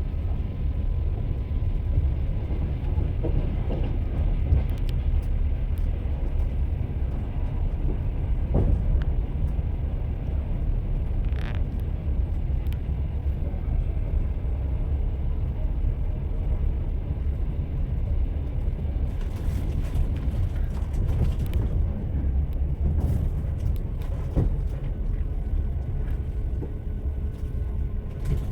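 Train running along the rails: a steady low rumble with the clatter of the wheels on the track.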